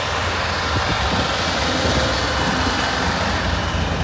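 Steady outdoor traffic noise: an even hiss with a continuous low rumble and no single vehicle standing out.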